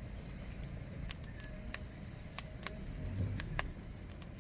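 Wood campfire burning, with irregular sharp crackles and pops over a low background rumble.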